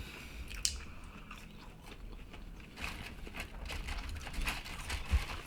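Close-up eating sounds: food being bitten and chewed, with scattered small crunches and clicks, one crisper crunch about half a second in.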